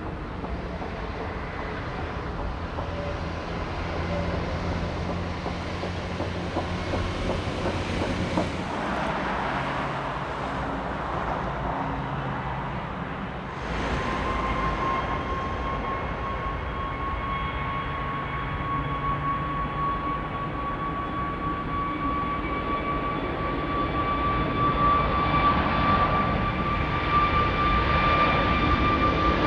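Jet airliner engines rumbling, then about halfway through a steady high whine sets in and slowly rises in pitch as the sound grows louder toward the end.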